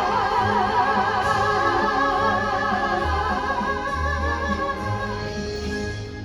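Voices holding the long final note of the song with vibrato over instrumental backing with a bass line. The note fades out near the end.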